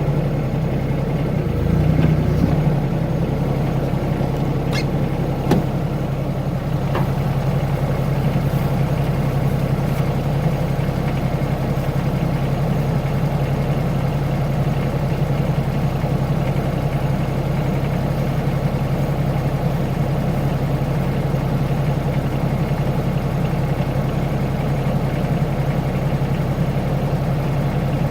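Mini excavator engine idling steadily, a little louder for a moment about two seconds in, with a few light clicks between about five and seven seconds in.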